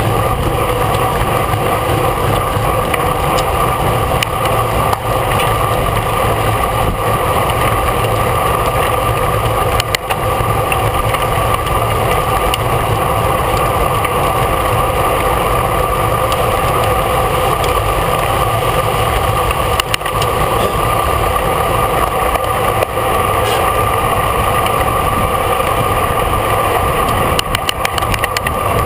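Steady rush of wind and road noise over a camera carried on a racing bicycle riding at speed.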